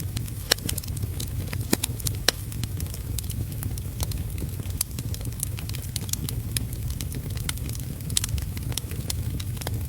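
Wood fire in a fireplace crackling, with frequent sharp pops and snaps. Underneath runs a steady hiss and low rumble of heavy rain.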